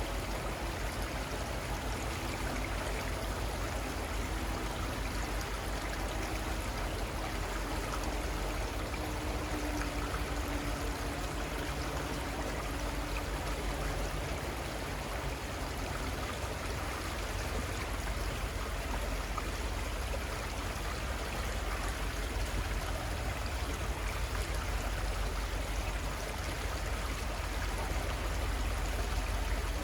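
River water running steadily over its bed, a continuous even rush with no breaks, with a faint low hum under it in the first half.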